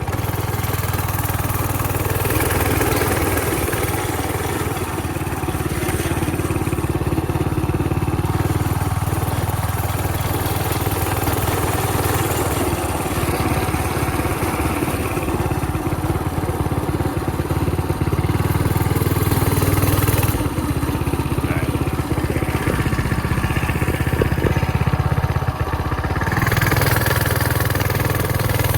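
Coleman mini bike's small single-cylinder four-stroke gas engine running steadily, its pitch and level shifting a little now and then.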